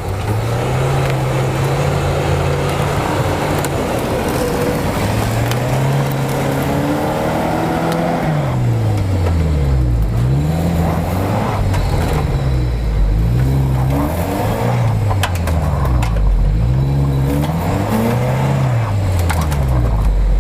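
Off-road SUV engine revving up and down over and over as it tries to climb a steep snowy slope. The revs swell slowly at first, then rise and fall about once a second from about eight seconds in.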